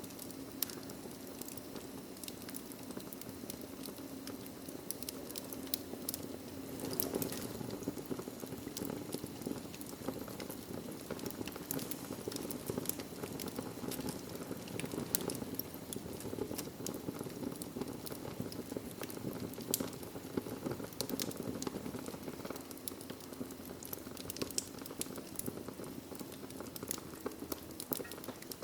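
Wood fire burning in a fireplace: a steady low rush of flame with frequent sharp crackles and pops scattered throughout.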